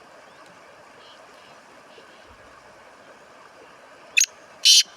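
Black francolin calling: a short harsh note about four seconds in, then a longer rasping note just before the end, the opening of its grating call series. Before the call there is only a faint steady hiss.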